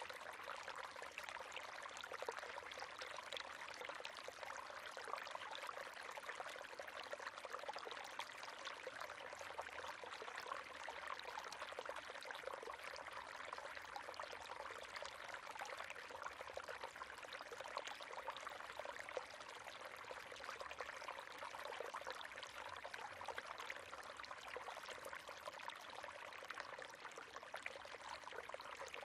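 River water running over stones: a steady, fine-textured splashing and babbling with no pauses.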